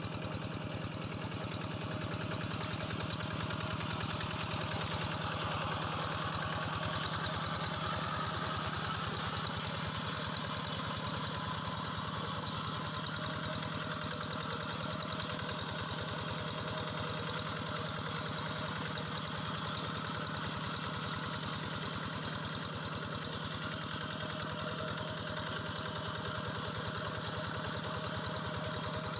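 Engine of a Quick G3000 paddy-field hand tractor running steadily at an even speed, with a fast, regular firing beat.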